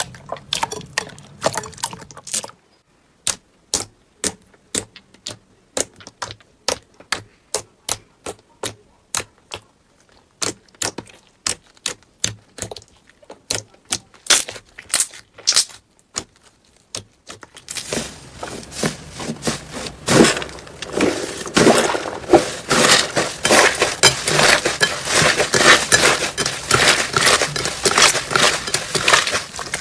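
Slime being worked by hand, making a run of sharp pops or clicks about twice a second, then a dense crackling from a bit past halfway.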